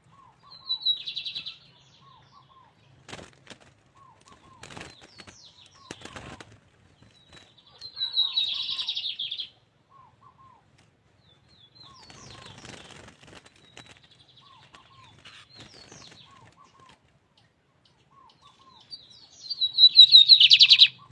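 Lined seedeater (bigodinho) singing three short, fast, high trilled song phrases, the last and loudest near the end. Between the phrases come bursts of rustling, and soft lower chirps repeat throughout.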